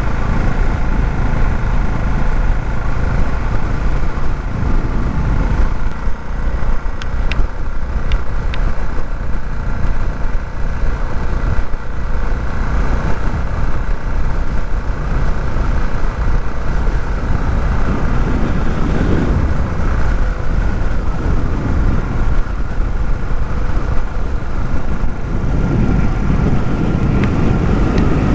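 Small Herald motorcycle's engine running steadily, under a heavy low rumble of wind on the microphone.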